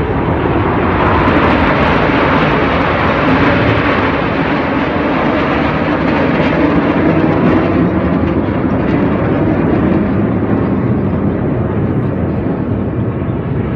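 Red Arrows' BAE Hawk T1 jets flying past, a loud steady jet-engine noise that swells over the first second or two and eases slightly near the end.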